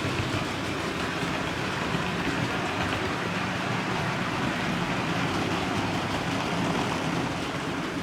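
OO gauge model train running on the layout, a steady whirr of the locomotive's motor and rumble of wheels on the track.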